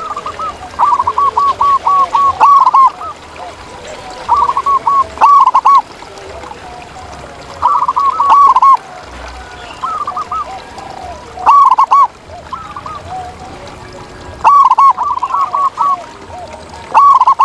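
Zebra dove (perkutut) cooing: phrases of quick, rippling short coos, each phrase about a second long, repeating every couple of seconds.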